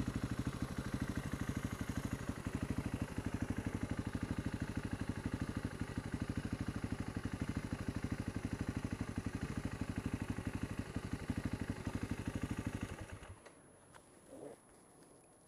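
Husqvarna TR 650 Strada's single-cylinder engine running at low, steady revs with an even, rapid pulse, then shut off about thirteen seconds in.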